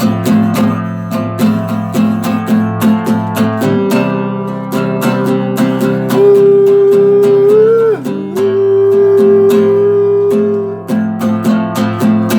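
Acoustic guitar strummed in a steady rhythm. From about six seconds in, a long held note sounds over it, bends up just before eight seconds, then is held again until nearly eleven seconds.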